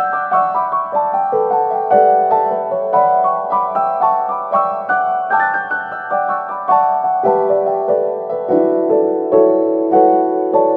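Background piano music: a flowing melody of quick notes over sustained lower notes.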